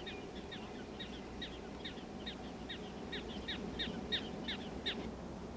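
A faint, quick series of short downward-sweeping chirps, about three a second, stopping about five seconds in, over a low steady background hiss.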